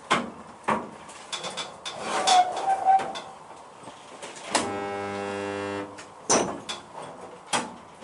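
A DIY resistance spot welder. The tongs are clanked and knocked into place on the sheet metal, then about four and a half seconds in the welder's transformer buzzes steadily for just over a second as one spot weld is made. A sharp knock follows as the tongs are moved.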